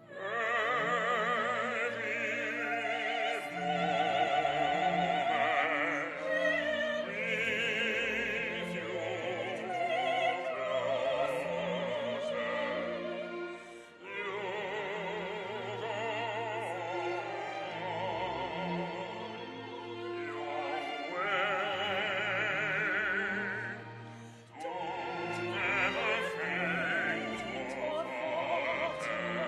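Operatic singing with heavy vibrato over instrumental accompaniment, in phrases broken by two short pauses.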